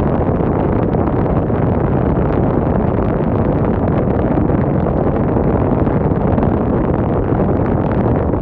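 Wind blowing hard and steadily on the microphone: a loud, dense low rumble that does not let up.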